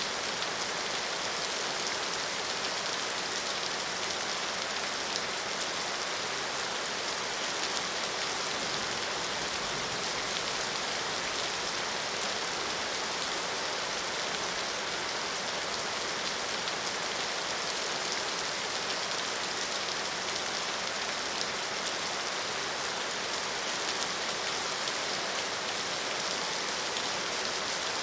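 Steady rain falling and pattering on surfaces, an even hiss with no thunder or let-up.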